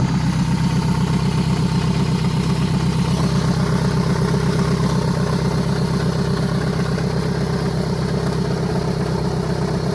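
Toyota Camry engine idling steadily on fresh oil just after an oil change, with an even, rapid pulsing beat.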